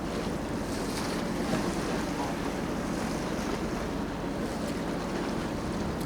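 Tour boat under way: a steady rush of water along the hull and wind on the microphone, with the boat's engine running underneath.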